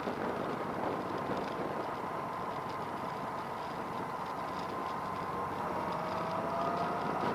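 A vehicle engine running steadily, with a faint whine that drifts in pitch and a second tone rising gently near the end.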